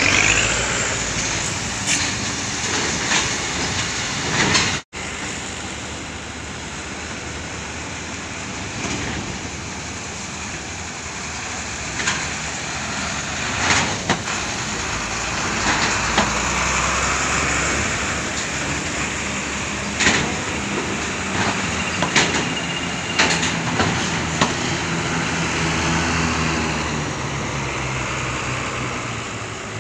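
Heavy vehicle engines running steadily, with scattered sharp knocks and clanks. The sound cuts out for a moment about five seconds in.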